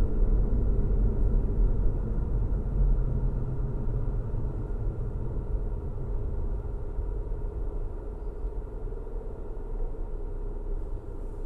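A car driving along a road: a steady low rumble of engine and road noise with a faint hum, slowly getting quieter.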